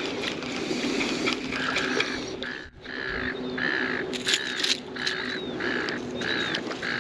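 A bird calling over and over in short, harsh notes, about two a second, starting about a second and a half in.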